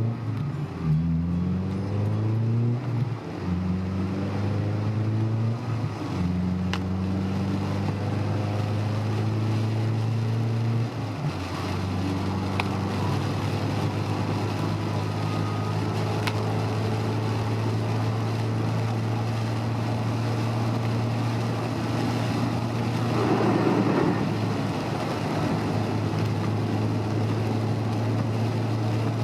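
Honda S2000's four-cylinder engine heard from inside the car: it revs up through the gears in the first few seconds, then settles into a steady cruise. A brief rush of noise rises and fades about 23 seconds in.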